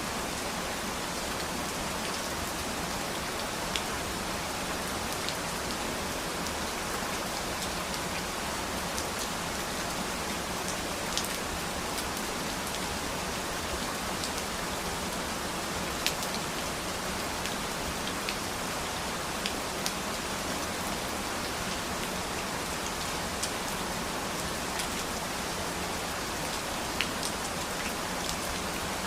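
Steady rain falling, an even hiss with scattered single drops striking sharply and louder now and then, about a dozen across the stretch.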